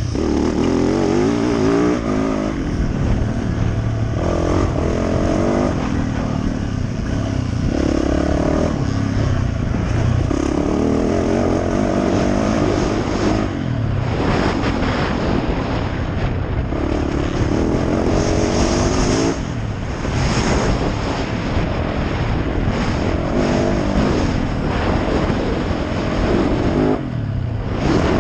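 Yamaha YZ450F dirt bike's single-cylinder four-stroke engine under hard riding, revving up and down repeatedly through the gears, with the throttle closed briefly three times.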